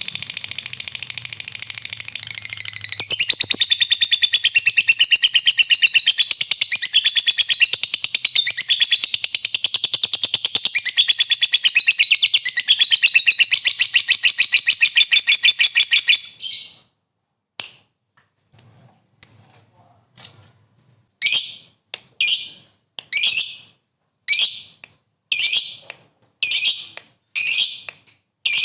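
Lovebird giving its long 'ngekek panjang' chatter: a shrill, very rapid unbroken stream of 'kek' notes that runs for about sixteen seconds. It then breaks off into a string of separate short, sharp chirps about twice a second.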